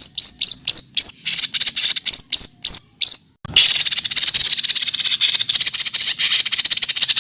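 Recorded songbird call for masteran training: a fast series of short sharp chirps, about four or five a second, then about three and a half seconds in a continuous harsh rasping trill, the rough 'tembakan' (shot) type of call.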